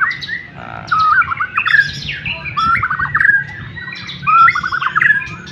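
White-rumped shama (murai batu) in full song: a loud, unbroken run of rapid, varied whistled phrases and short fast note series, with a new burst about every second.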